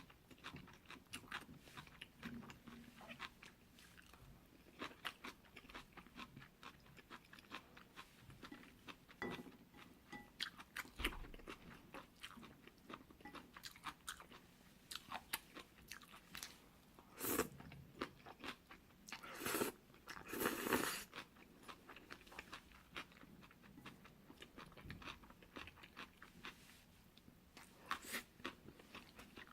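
Close-miked chewing of jjolmyeon, spicy chewy cold noodles, with many small wet clicks and a few louder bursts between about 17 and 21 seconds in.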